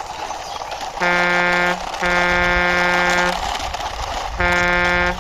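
Vehicle horn honking in steady blasts: a short honk about a second in, a longer one right after, then another near the end, over a constant background hiss.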